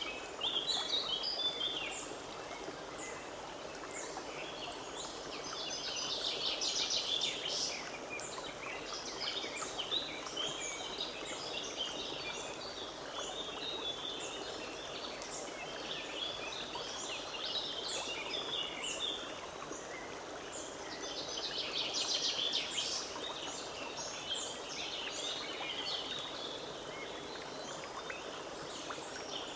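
Forest stream running steadily, with songbirds singing over it. Twice, about 6 seconds and 22 seconds in, a bird sings a loud phrase of rapid repeated notes.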